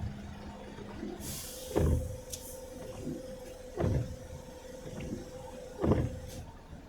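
Windshield wipers sweeping, with a thump at the end of each stroke about every two seconds, over steady vehicle cabin noise. A short hiss comes about a second in.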